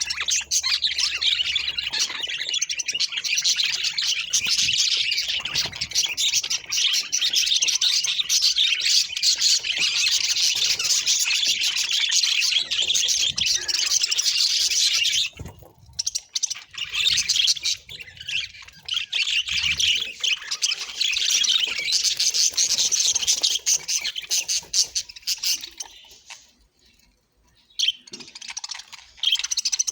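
Budgerigar chattering and warbling: a dense, rapid stream of high chirps that breaks off briefly about halfway through and again near the end.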